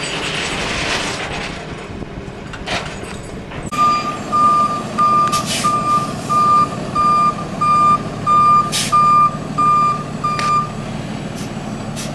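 Tow truck's backup alarm beeping about a dozen times, roughly two beeps a second, starting about four seconds in, over the steady running of the truck's engine. A hiss comes in the first couple of seconds.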